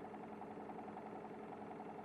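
Engine of a Kanto Bus 1900-series bus running steadily with an even hum, heard from inside the cabin, at or near idle.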